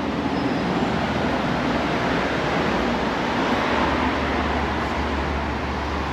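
Steady rushing background noise, with a low hum coming in about halfway through.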